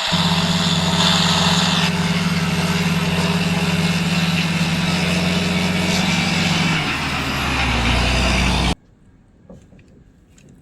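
Truck engine running steadily, its note shifting lower about seven seconds in, then cut off abruptly near the end, leaving only faint light clicks.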